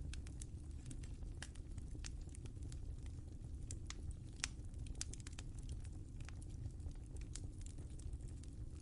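Wood fire crackling in a fireplace: irregular sharp pops and snaps over a low, steady rumble of the flames, with one louder pop about halfway through.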